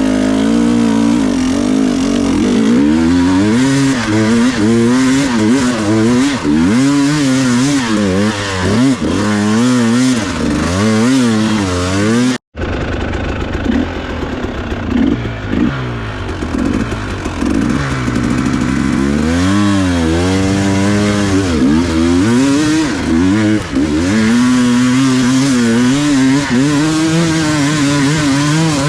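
Enduro dirt bike engine being revved up and down over and over, the pitch rising and falling with the throttle. The sound breaks off for an instant about twelve seconds in.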